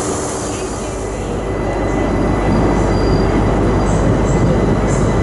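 Train moving on the platform tracks: a steady low rumble that grows a little louder after about a second and a half, with a few short high wheel squeals near the end.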